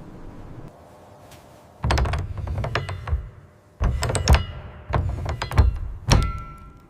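Four loud bouts of knocking and clattering, hard objects striking and rattling. The last ends in a short ringing tone.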